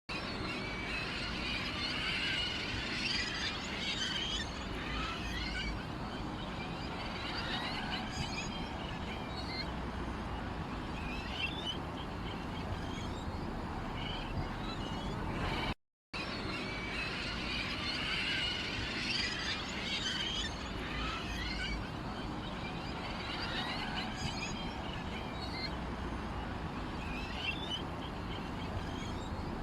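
Many small birds chirping and twittering over a steady background hiss. It cuts out briefly about halfway through, then the same stretch of birdsong repeats.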